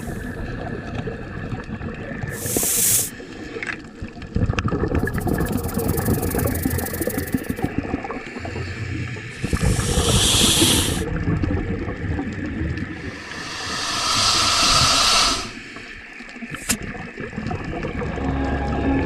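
Several separate bursts of hissing, a second or more each and a few seconds apart, over a steady low rumble.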